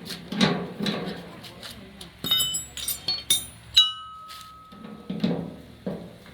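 Light metallic clinks about two seconds in, then one sharp clink that rings on as a clear tone for about a second.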